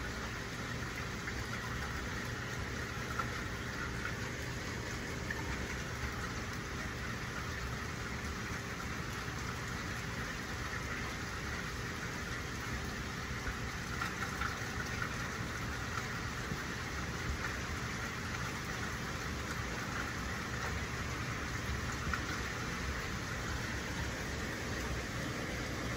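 Steady rain falling, an even hiss with a few small drips, over a low rumble.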